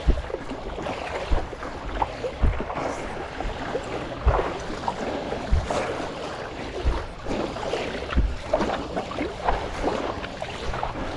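Water splashing around a stand-up paddleboard being paddled, with a dull low thump a little over a second apart in time with the strokes.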